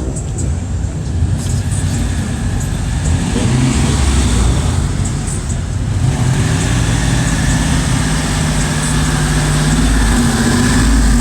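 Car engine running, its revs rising briefly a few seconds in, then holding steady.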